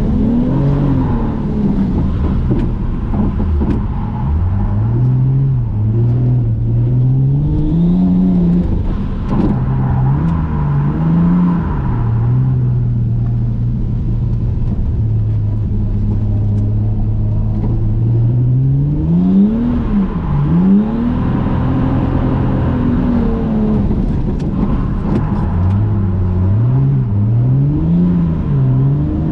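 Toyota JZX100 Mark II's straight-six engine heard from inside the cabin, revving up and down repeatedly as the car is drifted, with a long stretch of held, steady revs in the middle and quick rises and drops again near the end.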